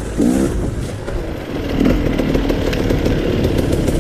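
Dirt bike engine running steadily under throttle while riding.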